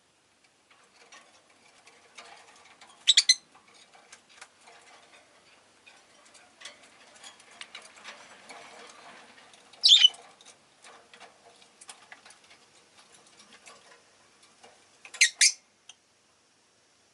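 Rosy-faced lovebirds giving short, sharp, high chirps: a quick pair about three seconds in, a single one about ten seconds in and another pair near the end, with faint soft clicking and ticking between them.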